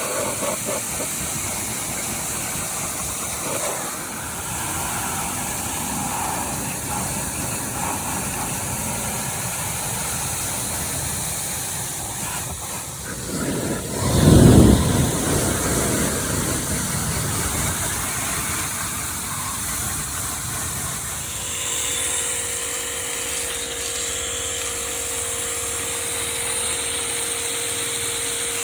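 Electric pressure washer spraying water, a steady hiss with a louder low rush about halfway through. For the last few seconds a steady motor hum joins it.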